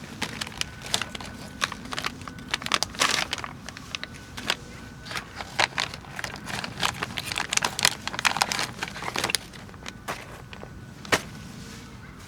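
Rapid, irregular clicks, taps and rustling of camping gear being handled and set up. The activity is densest in the middle and ends with a single sharp click near the end.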